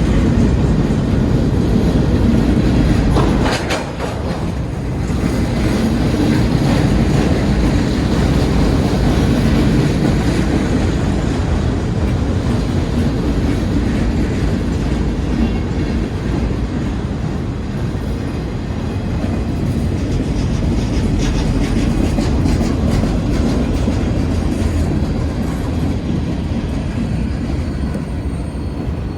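Cars of a passing manifest freight train rolling by, a steady rumble of steel wheels on rail, dipping briefly in loudness about four seconds in.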